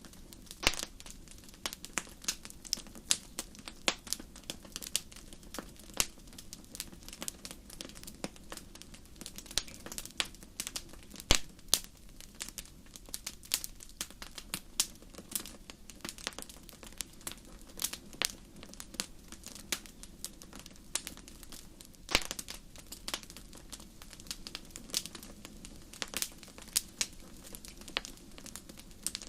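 Wood fire burning in a fireplace, crackling with many sharp, irregular pops over a soft steady rumble of the flames.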